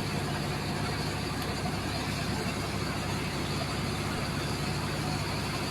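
Steady running of an engine, such as the pump that drives a high-pressure water hose, under a constant hiss of water jetting into sand. There is no change in pitch or level.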